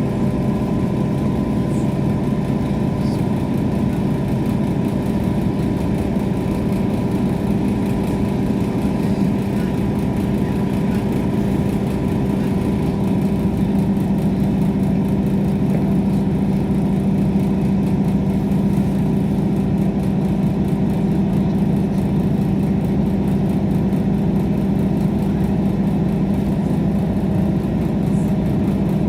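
Steady running noise of a diesel passenger train heard from inside the carriage: an unbroken engine hum with several steady tones over a low rumble.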